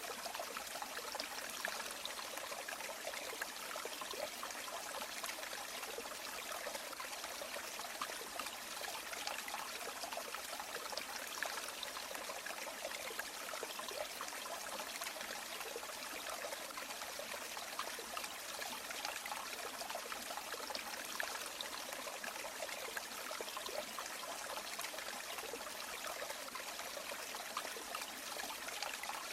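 River water flowing steadily over stones, an even rush with constant small trickles and splashes.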